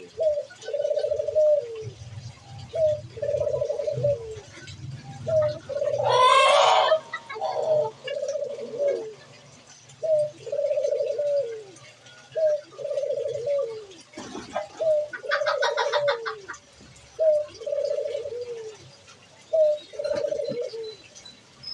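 A pigeon cooing over and over: a short lead note, then a longer rolling coo that falls at the end, about every two and a half seconds, nine times. About six seconds in, another bird gives a louder harsh call, and a fast rattle of ticks comes near sixteen seconds.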